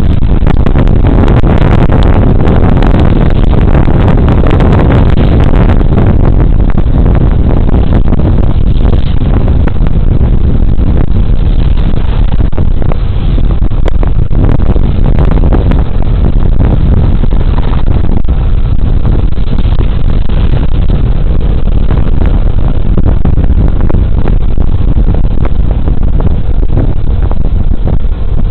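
Suzuki Burgman Street 125 scooter under way on the road: a loud, steady rumble of its single-cylinder engine, tyres and rushing air, picked up by a body camera's microphone.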